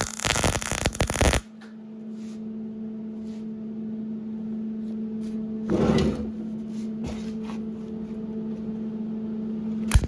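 Welding arc on mild-steel exhaust pipe crackling in short bursts, one about a second and a half long at the start and another near the end. A steady electrical hum with faint ticks runs between them.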